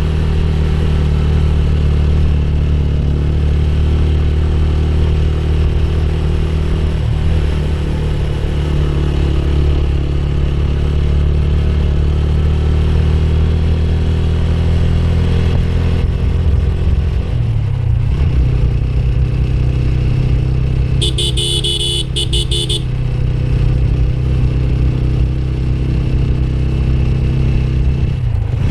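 Motorcycle engine running steadily on the move, its pitch dipping and picking up again a little past halfway and once more near the end. A horn sounds in a quick run of short beeps about two-thirds in.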